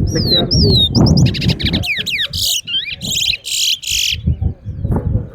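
Towa-towa seed finch singing a rapid run of whistled notes, with sweeping falling slurs and fast trills, stopping about four seconds in, over low crowd murmur.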